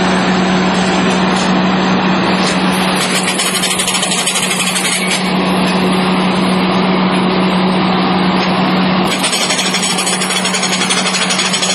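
Well-drilling machine running steadily: loud, even mechanical noise over a constant hum, with a brighter rattling edge in stretches.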